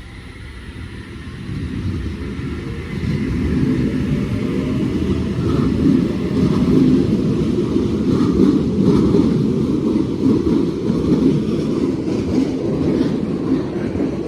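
Eight-car H set (OSCAR) electric train moving past at close range, its wheels rumbling on the rails. The rumble grows louder over the first few seconds, then stays steady.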